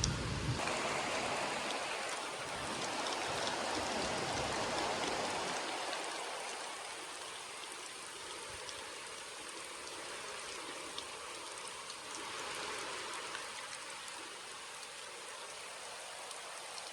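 Steady rain falling, with scattered individual drops ticking through it. A low rumble that dies away over the first five seconds sits under the rain, which is heavier at first and then settles to an even patter.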